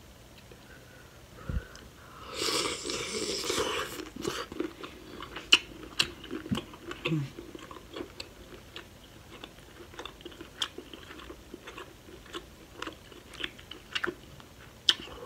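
Close-up eating sounds of a sauce-coated boiled shrimp being bitten and chewed. About two and a half seconds in there is a loud, dense bite lasting about a second and a half, followed by steady chewing with many small sharp clicks and smacks.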